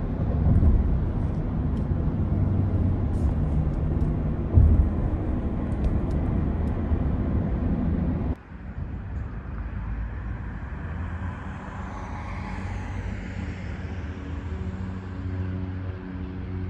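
A motor running with a steady low hum, cutting abruptly about eight seconds in to a quieter, steadier engine drone.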